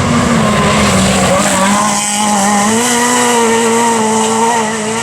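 Renault Clio R3 rally car's four-cylinder engine running hard at high revs, its note held fairly steady with small dips as the driver works the throttle.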